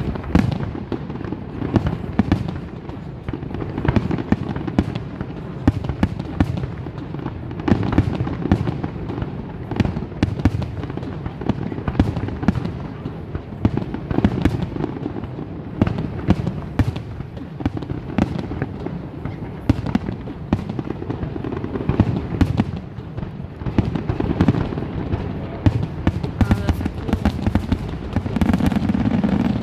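Aerial fireworks exploding in a rapid, continuous barrage: many sharp bangs and crackles a second over a steady low rumble of overlapping booms.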